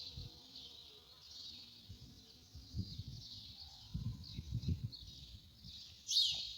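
Small birds chirping over a steady high-pitched insect-like drone, with a sharp, loud chirp about six seconds in and a few low rumbles in the middle.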